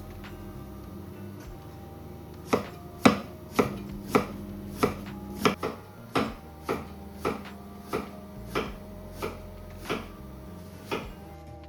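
Kitchen knife chopping on a cutting board: slow, evenly paced cuts, about one every half second or so, starting a couple of seconds in.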